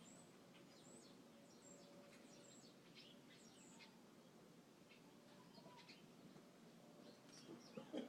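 Birds chirping faintly, many short high chirps scattered throughout, over a low steady background hum.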